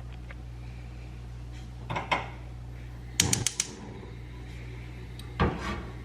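Kitchen cookware and utensils being handled: a couple of knocks, a quick run of clicks about halfway through, and another knock near the end, over a steady low hum.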